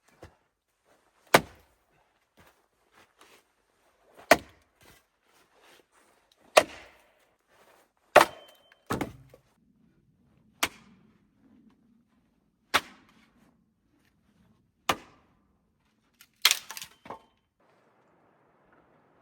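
An axe chopping wood: a row of sharp single blows about two seconds apart, with a quick cluster of knocks near the end.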